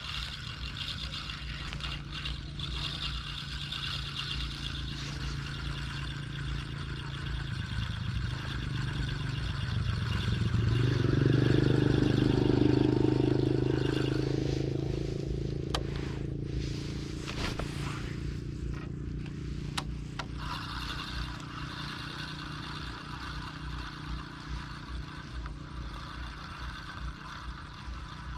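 A small engine passes by, growing louder to a peak about halfway through and then fading away, over a steady low hum.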